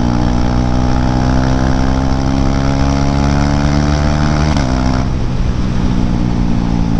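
KTM Duke 390's single-cylinder engine running through a BS4-spec exhaust with the dB killer removed, pulling steadily as its pitch slowly rises under acceleration. About four and a half seconds in the note dips briefly, as at a gear change, and after that it runs on with a softer upper edge.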